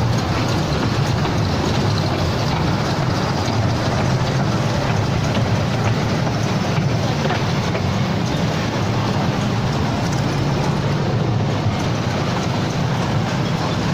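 Steady low rumble of a children's ride-on train (Coco Train) running along, its motor and wheels going without pause.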